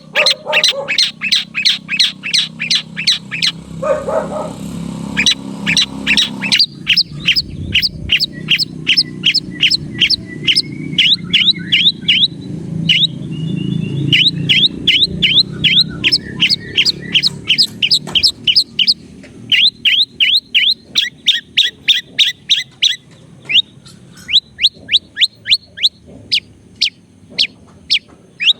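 Long-tailed shrike (cendet) calling in long runs of short, sharp, downward-sweeping chirps, about three to four a second, with brief pauses between runs.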